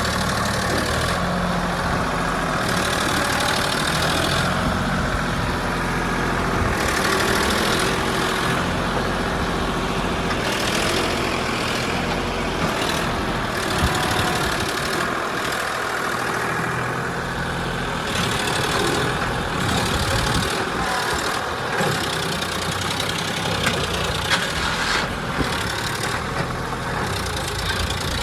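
Sonalika 745 DI tractor's diesel engine running steadily.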